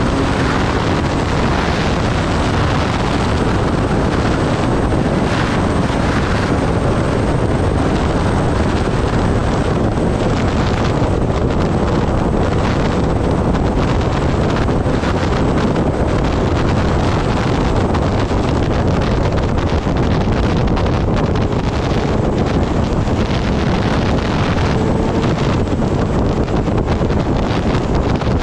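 Wind rushing over the microphone of a moving Kawasaki Ninja ZX-10R sport bike, with the bike's inline-four engine running steadily underneath.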